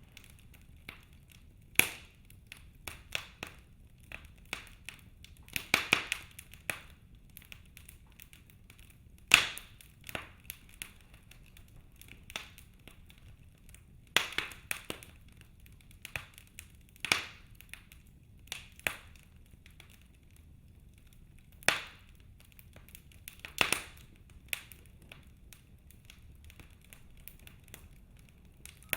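Wood fire in a fireplace crackling, with irregular sharp pops from burning logs, the loudest every few seconds, over a faint low rumble of the flames.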